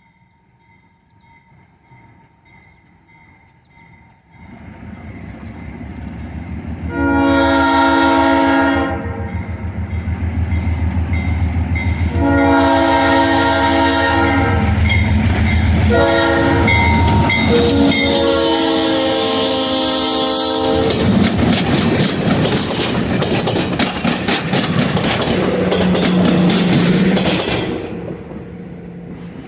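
ALCO RS-11 diesel locomotive approaching and passing at the head of a passenger train, sounding its horn in the grade-crossing pattern: two long blasts, a short, and a final long one. A crossing bell dings faintly before the engine's rumble builds, and the train's passing noise is loud until it falls off near the end.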